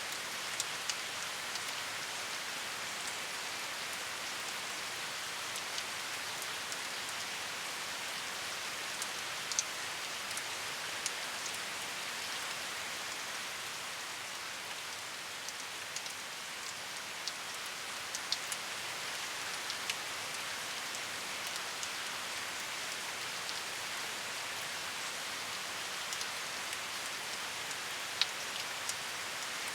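Steady rain falling, a continuous hiss with scattered sharp individual drop ticks on a hard surface.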